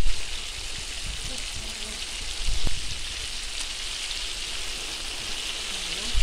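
Onions and meat with tail fat sizzling steadily in deep hot oil in a cast-iron kazan, frying the meat-and-onion base for plov. A few dull bumps come at the start, about two and a half seconds in, and at the end.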